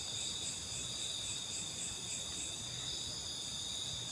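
Night insect chorus of crickets, a steady high-pitched trilling in several even bands that runs without a break.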